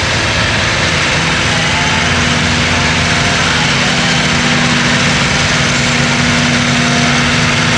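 Pulling tractor's engine running hard at steady high revs under full load, dragging the brake sledge down the track.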